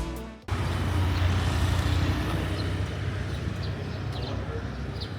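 The intro music cuts off about half a second in, followed by a steady low rumble of outdoor background noise, with a few faint high chirps later on.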